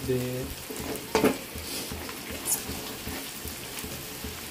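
Onions, green chillies and cashews frying in oil in an aluminium kadai, sizzling steadily while a wooden spatula stirs and scrapes them around the pan. A few sharp knocks of the spatula against the pan, the loudest about a second in.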